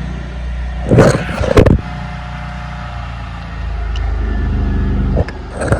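A motor running with a steady low hum, growing somewhat louder past the halfway point. Two short loud noises come about a second in.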